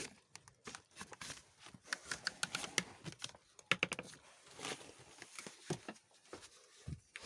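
Close handling noise: an irregular run of small clicks and knocks, like gear such as a tripod and camera being handled.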